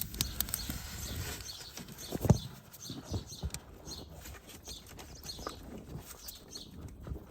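Irregular clicks and knocks of hands and tools working on plastic and metal parts in a car's engine bay, with one louder knock about two seconds in.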